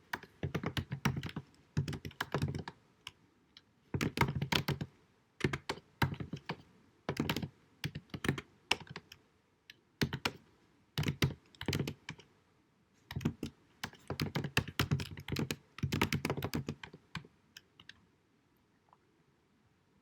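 Computer keyboard typing, recorded at low sound quality: quick runs of key clicks in bursts with short pauses between them. The typing stops near the end.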